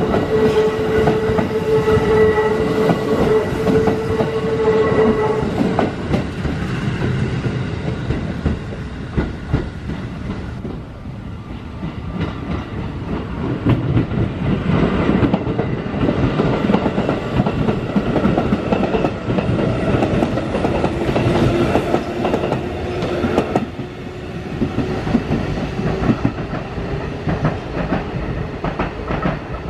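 Electric commuter train passing over rail joints, its wheels clattering rhythmically, with a steady motor whine that stops about five seconds in. A second stretch of train running noise with a lower whine fills the middle of the clip, and the noise falls off near the end.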